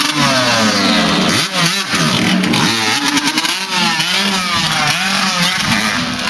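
Motocross dirt bike engine revving up and down repeatedly as it is ridden, its pitch rising and falling several times.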